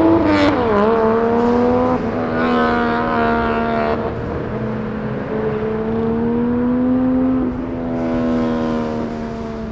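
Car engine with a loud modified exhaust accelerating. Its pitch drops sharply at a gear change about a second in, climbs slowly, drops again near the end of the run, and the sound grows fainter as the car moves off.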